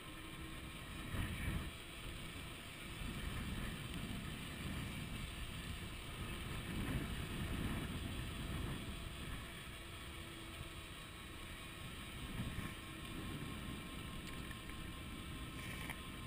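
Wind buffeting the microphone of a chest-mounted camera while riding an electric bicycle: an uneven low rumble that swells and eases. Faint steady tones run underneath.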